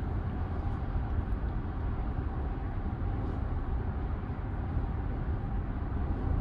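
Steady low road and tyre rumble inside the cabin of a Hyundai Ioniq 9 electric SUV driving at highway speed.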